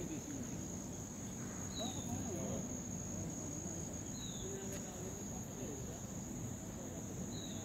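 Steady high-pitched insect trill, unbroken throughout, with a short falling chirp heard three times and a low murmur underneath.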